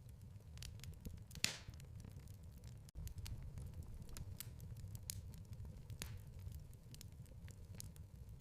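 Fire in a fireplace crackling: a low steady rumble with many small quick crackles, and louder pops about a second and a half in and again about six seconds in.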